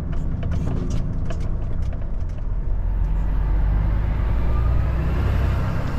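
Truck engine running under way, heard from inside the cab, a steady low drone with a whine that rises in pitch over the last three seconds. A few clicks sound in the first two seconds.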